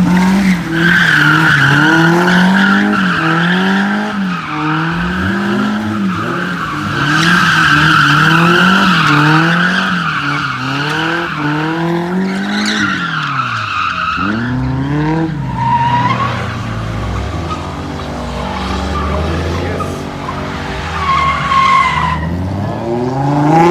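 A car drifting in circles: the engine revs up and down about once a second while the tires squeal steadily. Around two-thirds of the way in the revs drop and settle lower, with a few short tire chirps, then the engine picks up again at the very end.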